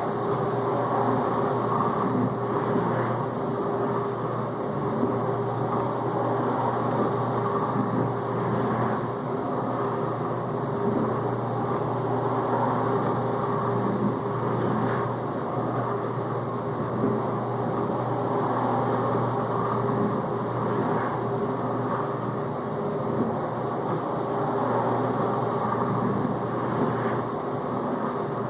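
Whirlpool dishwasher circulating water in its first rinse: a steady motor hum under the rush of water spraying inside the tub, with now and then a faint swish. The pump starts just before this and runs evenly throughout.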